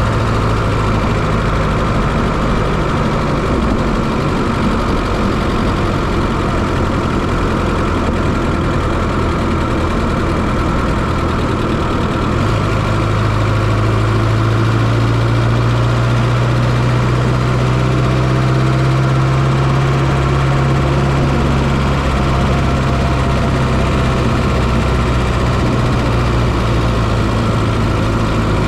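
Fiat Coupé 2.0 16V turbo four-cylinder engine running steadily, heard from inside the engine bay. Its pitch steps up a little about twelve seconds in and then holds steady.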